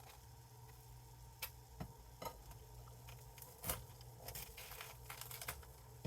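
Faint scraping and clicking of a knife spreading cream cheese over a warm toasted bagel, a few short strokes scattered through, more of them in the second half, over a low steady hum.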